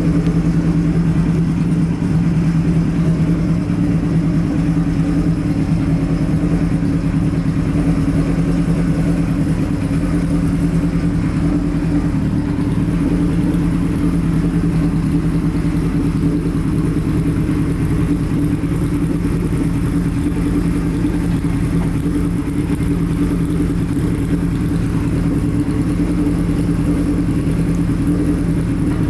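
Kawasaki Z1B's 903 cc air-cooled inline-four engine running steadily at an even pitch through an SKS short header and straight-through silencer.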